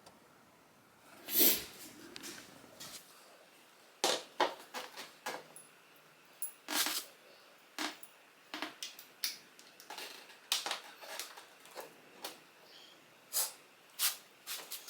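Irregular light clicks and taps, scattered, with a louder one about a second and a half in and a busier run of them from about four seconds on.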